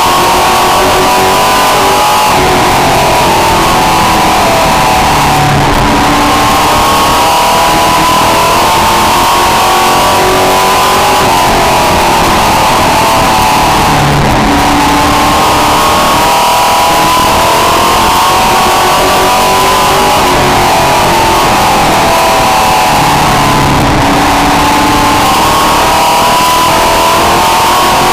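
Race truck engine heard onboard, running loud and hard. The revs drop and climb again about every eight to nine seconds as it comes off the throttle into each turn of the oval and accelerates back out.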